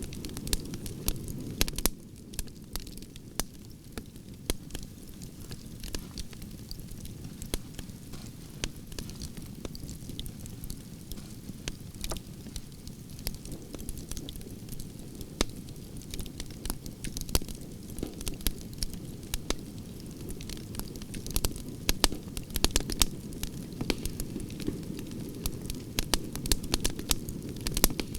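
Campfire of burning branches crackling: frequent sharp pops and snaps over a steady low rumble of flame, the pops growing denser near the end.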